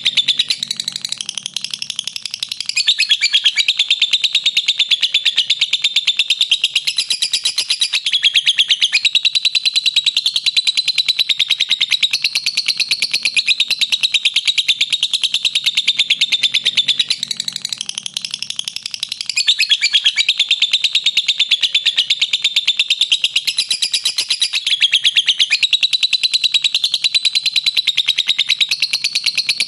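Lovebird giving its long 'ngekek' call: a rapid-fire chattering trill of high notes strung together without a break for many seconds, easing off briefly about two seconds in and again about seventeen seconds in before running on.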